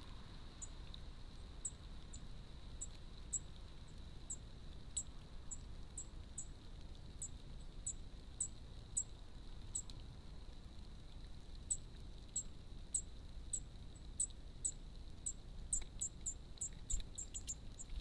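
A bird giving short, thin, high-pitched calls, about two a second, quickening to several a second near the end.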